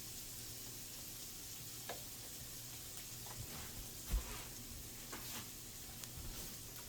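Onions and peppers sizzling steadily in butter and chicken drippings in a sauté pan, with a spoonful of flour being stirred in: a few light utensil knocks and a duller thump about four seconds in.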